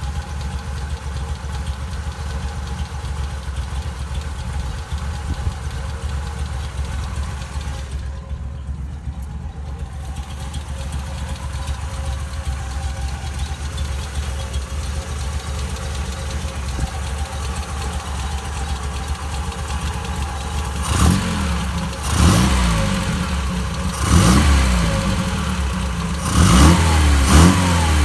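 1967 Triumph Spitfire MKII's 1147 cc four-cylinder engine idling steadily, then revved in a series of quick blips in the last several seconds, pitch rising and falling with each one.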